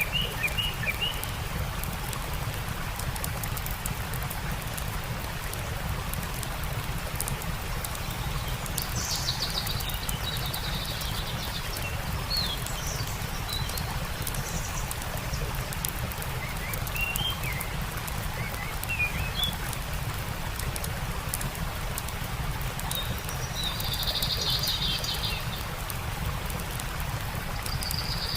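Steady rush of a stream with a campfire crackling, and songbirds chirping now and then: short chirps at the start, around the middle, and a few buzzy trills in the second half.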